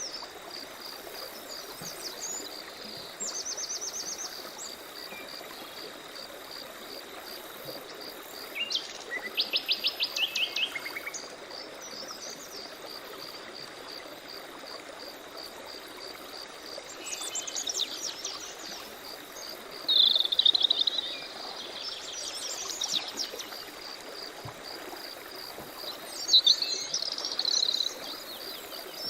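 Several songbirds calling in short bursts of rapid high notes, the loudest a fast trill of about ten strokes near ten seconds in, with chattering calls later. Beneath them an insect chirps in a steady pulsing rhythm over a constant soft wash of running stream water.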